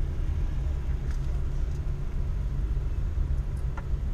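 Ford Focus ST engine idling, heard from inside the cabin as a steady low sound.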